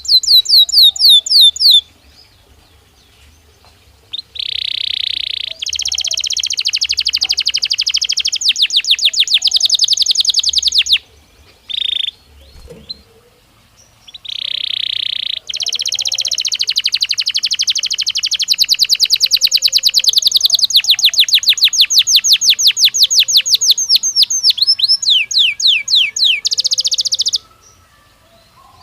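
Belgian canary singing loudly in long phrases of fast trills and rolls, with short pauses between phrases. The longest phrase runs about thirteen seconds.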